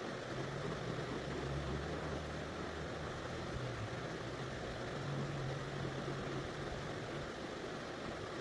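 Steady rush of flowing river water, with a low hum underneath that fades out about three and a half seconds in and returns a second and a half later.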